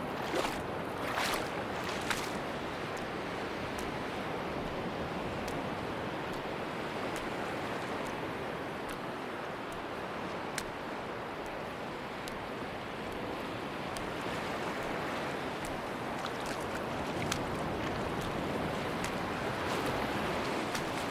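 Sea surf washing steadily on a beach, with faint scattered clicks over the wash and a brief louder rasp about a second in.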